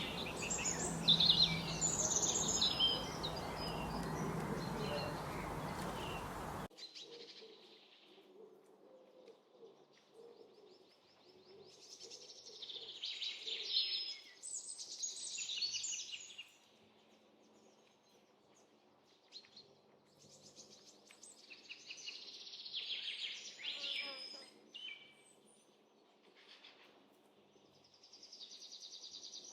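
Small birds chirping and twittering in bouts of quick high calls. For the first few seconds the calls sit over a loud, even background hiss, which cuts off suddenly about a quarter of the way in; after that the chirps come over a much quieter background.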